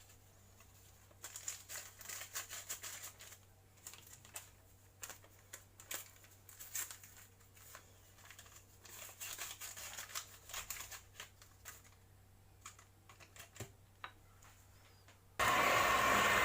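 Light clicks, taps and scraping of a utensil against a mixing bowl as baking powder is stirred into cake batter, with a loud steady rushing noise lasting just over a second near the end.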